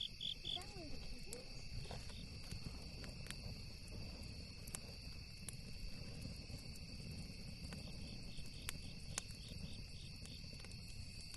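Night insects trilling steadily at a high pitch, with a cricket chirping about five times a second that stops just after the start and comes back faintly near the end. A campfire crackles now and then with a few sharp pops over a low steady rumble.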